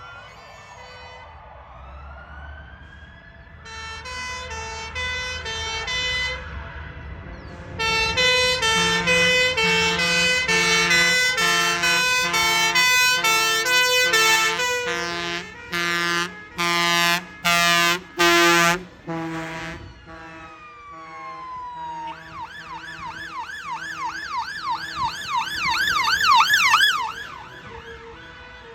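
Fire engines passing one after another with sirens going: two-tone sirens alternating between two notes, then four short loud blasts, then a fast up-and-down yelp siren that builds and cuts off near the end, over the rumble of the engines.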